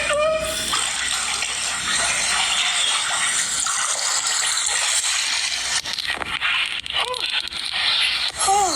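Loud steady rush of water gushing, easing slightly about six seconds in.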